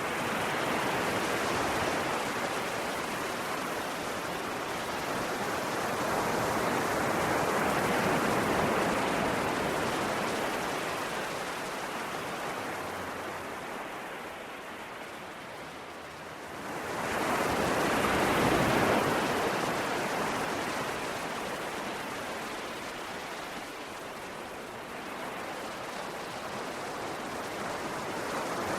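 Ocean waves in a continuous rush that swells and fades in slow surges, three in all, the loudest a little past halfway.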